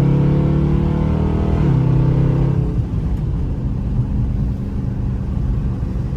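Dodge Charger V8 with an aftermarket Hellcat exhaust accelerating hard at full throttle, heard from inside the cabin: the engine note climbs, breaks at an upshift about a second and a half in, and climbs again. About three seconds in the driver lifts off and it drops to a lower, rougher exhaust rumble while coasting.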